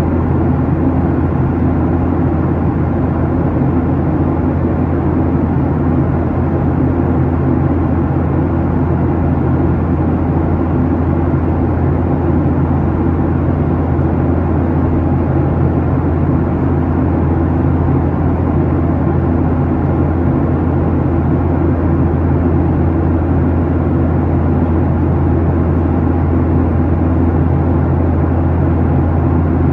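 Steady cabin noise inside a Boeing 737-800 in climb: the low hum of its CFM56-7B turbofan engines under an even rush of airflow past the fuselage.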